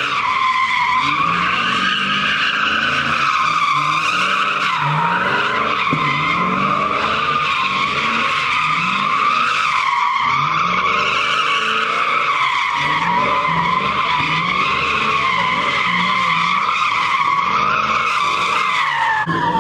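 A Ford Mustang doing donuts: its tyres squeal without a break, wavering in pitch, while the engine revs up over and over beneath it. The sound changes abruptly near the end.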